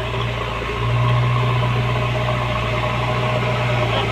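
JCB backhoe loader's diesel engine running steadily, getting a little louder about a second in.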